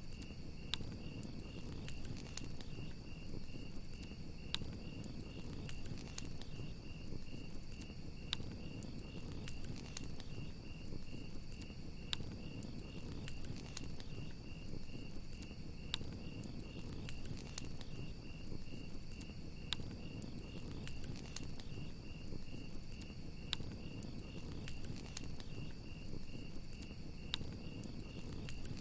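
Crickets chirping in a steady, fast, even pulse over a crackling campfire: a low rush with sharp pops every second or two.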